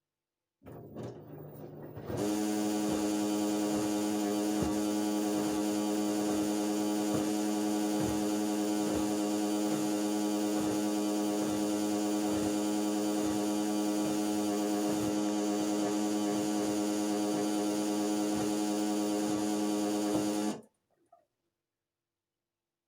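LG washing machine giving off a loud, steady hum from its underside, the unexplained noise whose cause the owner is asking about. It starts faintly, comes in at full strength about two seconds in, and cuts off suddenly near the end.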